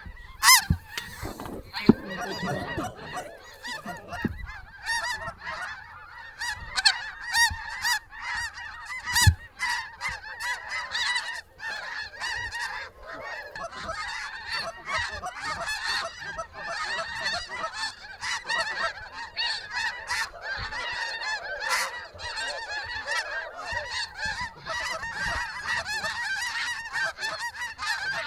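Many geese honking at once, a dense continuous chorus of overlapping calls. A few sharp knocks cut through it near the start and about nine seconds in.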